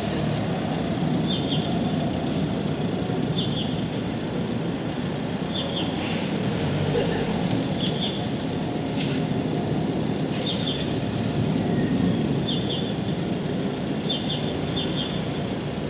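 A bird repeats the same short, high chirping phrase about every two seconds over a steady low rushing noise.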